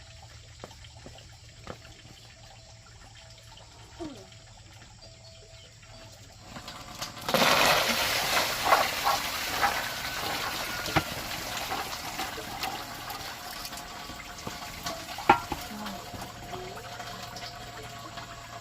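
Water pouring out in a sudden rush about seven seconds in, tapering off over several seconds, with a few knocks.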